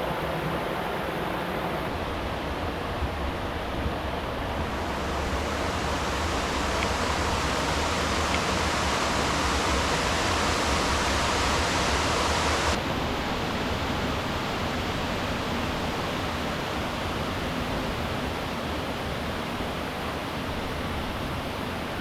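Steady rushing of river water. A brighter, louder stretch begins about five seconds in and cuts off suddenly near the middle.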